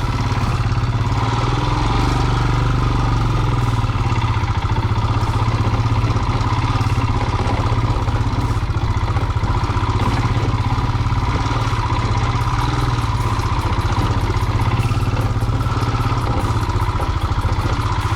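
Royal Enfield motorcycle's single-cylinder engine running steadily at a constant pace, its even firing pulses carrying throughout.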